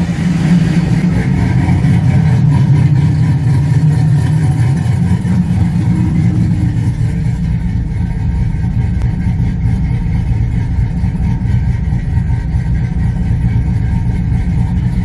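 Cammed GM LS V8 pickup engine idling steadily while warming up after a cold start; it runs rough, which the owner puts down to an off tune.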